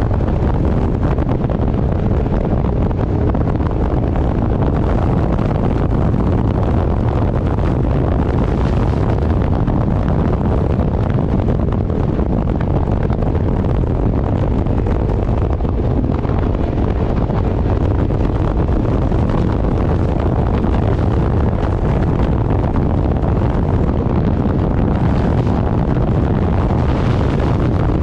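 Heavy wind buffeting the microphone while travelling at speed: a loud, steady, low rumbling rush.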